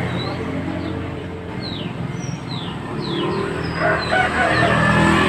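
Small songbird, the mantenan, giving short sharp descending chirps at intervals. A rooster crows about four seconds in, over a steady low engine-like hum.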